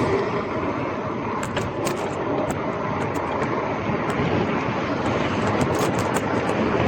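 Gravel bike riding over a rough street surface: a steady rumble of tyres and wind, with many short sharp rattling clicks from the bike.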